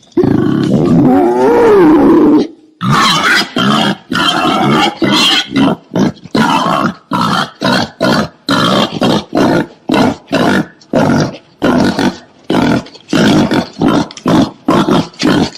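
Wild boar calling: a drawn-out call that wavers in pitch for the first two and a half seconds, then a rapid run of short grunts, about two a second.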